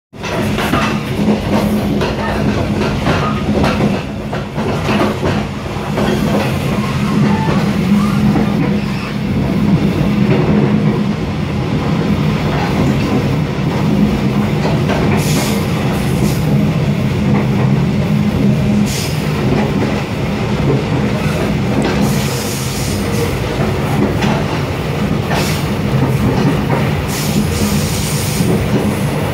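Passenger train running along the line, heard from inside the carriage: a steady rumble with a low drone, and brief hissing flares now and then in the second half.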